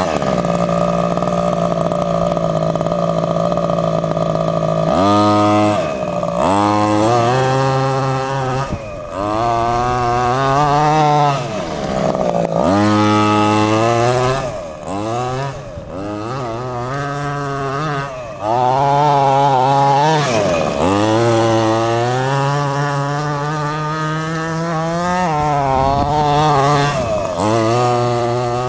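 Small 23cc two-stroke engine of a 1/5-scale gas R/C monster truck, holding a steady pitch for about five seconds, then revving up and down over and over as the throttle is worked.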